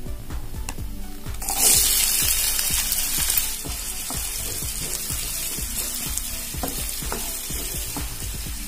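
Chopped onions hit hot oil with fennel seeds in a nonstick frying pan, sizzling sharply about a second and a half in, then frying on with a steady sizzle. A wooden spatula stirs and scrapes the pan, making short clicks.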